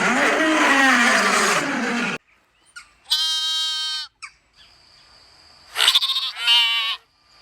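Dense, overlapping jumble of sounds that cuts off suddenly about two seconds in, then a farm animal calling: one long pitched call about three seconds in and two shorter, wavering calls near the end.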